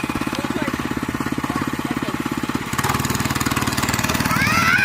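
Small single-cylinder motorcycle engine running with a fast, even beat, its sound changing about two-thirds of the way through; a voice calls out near the end.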